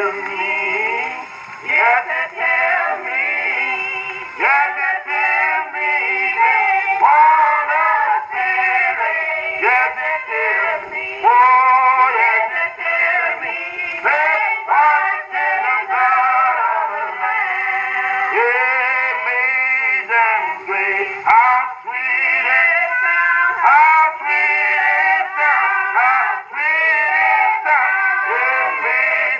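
Church hymn singing from a 1920s 78 rpm shellac record: a male-led group of voices sings a slow hymn in close harmony. The recording sounds thin, with almost no bass and no treble.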